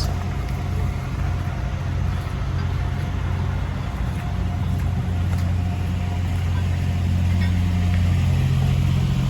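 Heavy diesel engine of the recovery equipment running steadily under load. It works harder about five seconds in and again near the end.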